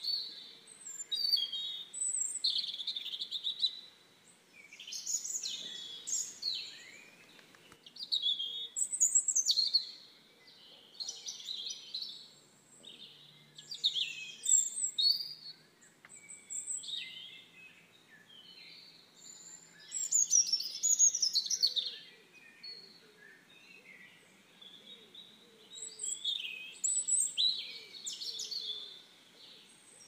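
Songbirds singing: short, high chirping phrases come in bursts every two to three seconds, with brief lulls between them.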